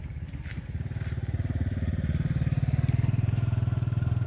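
A small engine running close by with an even, rapid firing pulse, growing louder about a second in and then holding steady.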